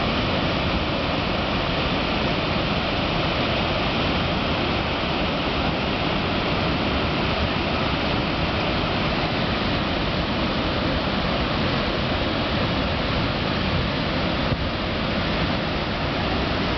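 Water released through a dam's spillway, rushing steadily with an unbroken, dense noise.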